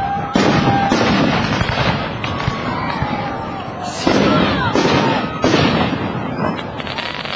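Aerial fireworks shells bursting: a series of about five loud bangs, two close together near the start and three more in quick succession past the middle, each trailing off into crackle and rumble.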